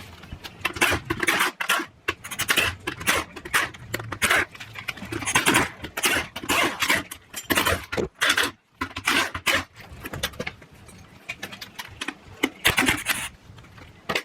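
Hand tools and metal parts clinking and scraping in quick, irregular clatters while work goes on at a manual transmission case.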